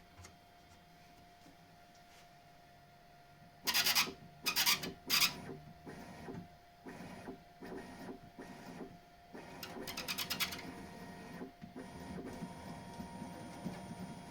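Bambu Lab X1 Carbon 3D printer's bed being moved, with its belt tensioner roller squeaking and grating. There are three loud strokes about four seconds in, then shorter stop-start runs. Rubber built up on the roller causes the noise, and a smear of soap on the roller's edges has only slightly reduced the squeak.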